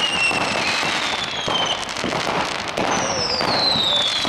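Fireworks going off: a dense crackle of small bangs, with whistling fireworks whose whistles fall in pitch, one through the first couple of seconds and another starting about three seconds in.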